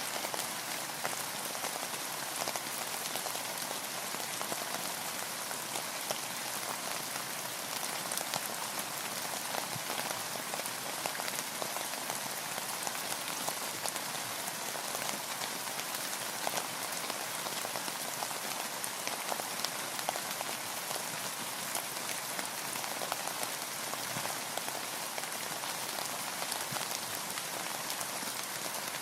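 Steady rain falling on a boat: an even hiss with a dense scatter of small, separate drop taps, unchanging throughout.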